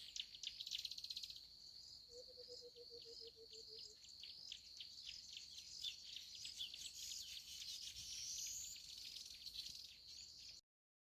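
Crickets chirping in a steady high trill, with a fast series of sharp chirps over it. A short run of low, evenly repeated notes comes about two seconds in, and a rising bird whistle near the end. The sound is faint and cuts off abruptly shortly before the end.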